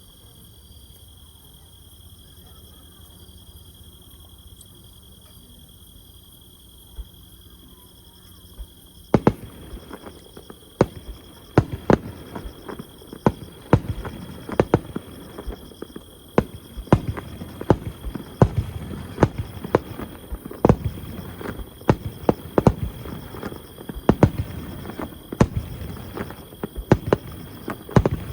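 Steady insect trilling, then about nine seconds in a fireworks barrage starts: rapid sharp bangs of bursting shells, often several a second, which keep on going over the trilling.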